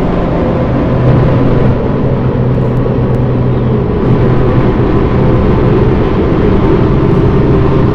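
MRT Line 3 train running along the line, heard inside the car: a steady rumble of wheels on rail under a constant low hum.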